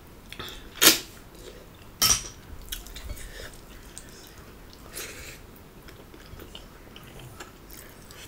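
Close-up sounds of a person chewing and eating food, with a few short sharp clicks, the loudest about one and two seconds in and another around five seconds.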